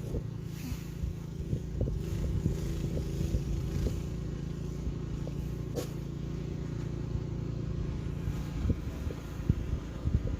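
An engine running steadily, with a few short knocks and scrapes over it.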